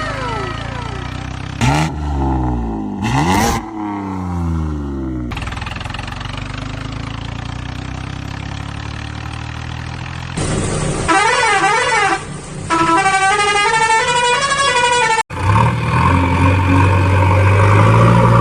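Vehicle sound effects: two quick passing sounds with sweeping pitch, then a steady hum, then a warbling tone that rises and falls several times a second for about four seconds, like a horn or siren. It stops suddenly and a low engine-like hum follows.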